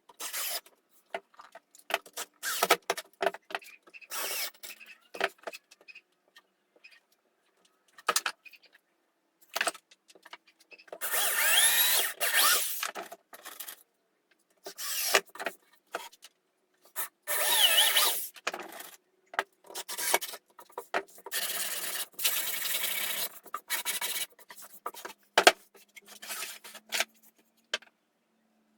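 Woodworking tools working wood in short separate bursts, scraping and grinding sounds broken by abrupt silences, with the longest runs about 11 and 17 seconds in.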